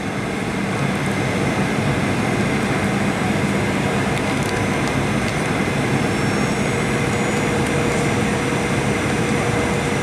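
Steady cabin noise inside a Boeing 737-800 in flight on approach: an even rush of engine and airflow noise with a few faint steady whining tones.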